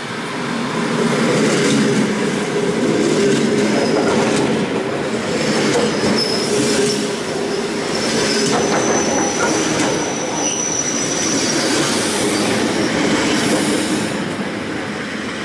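ED4M electric multiple unit rolling past close by, its cars running with steady wheel-on-rail noise and clicks over the rail joints. Thin high wheel squeals come and go through the middle part.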